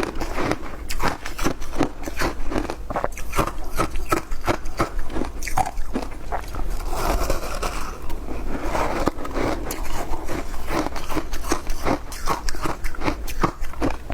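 Ice being chewed, a close, continuous run of crisp crunches, about three or four a second.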